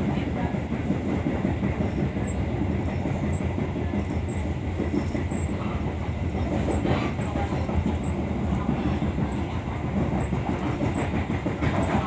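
Passenger train running, heard from inside a carriage: a steady low rumble of wheels on the rails with faint light ticks.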